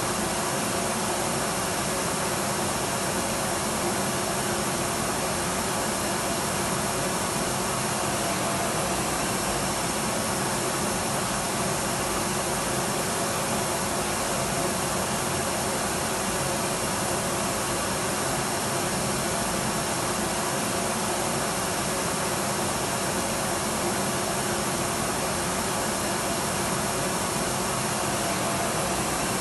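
Electric vacuum cleaner running steadily, a continuous even whoosh of motor and airflow with a faint steady hum in it.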